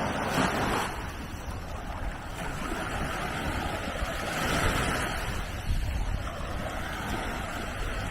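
Small sea waves breaking and washing up the beach, the wash swelling and easing, with wind rumbling on the microphone.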